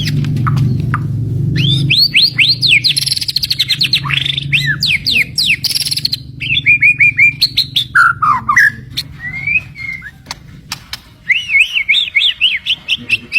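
White-rumped shama (murai batu) singing loudly: rapid runs of rising whistled notes mixed with sharp clicks, with a short lull about three-quarters through before another fast run.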